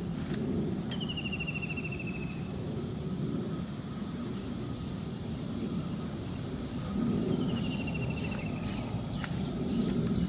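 Steady high-pitched insect drone, with a bird twice giving a fast trill that falls slightly in pitch, about a second in and again near the end, over a low rushing background noise.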